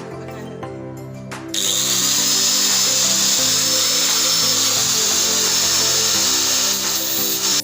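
Angle grinder grinding the teeth of a wood saw: a loud, steady, hissing grind with a thin high whine that starts abruptly about a second and a half in, over background music.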